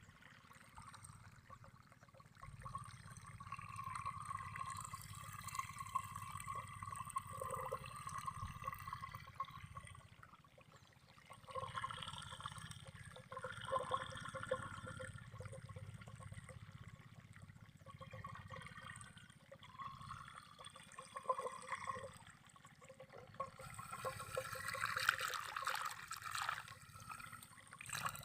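Running water flowing and trickling, its level swelling and easing every few seconds.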